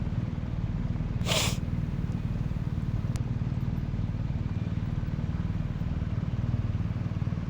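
BMW R1200RT's boxer-twin engine running steadily while riding, with a brief hiss about a second in.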